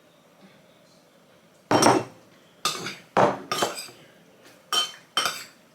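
Spoon scraping and clinking against a bowl in a run of short strokes, starting a little under two seconds in, as tomato sauce is spooned onto the pasta and stirred in.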